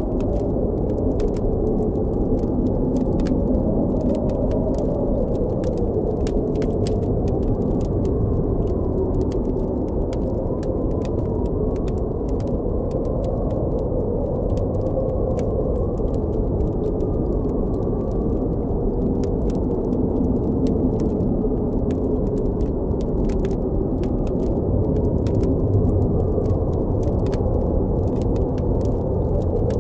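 Blizzard wind blowing steadily and deep, its pitch slowly wavering, with a campfire crackling in many small sharp pops throughout.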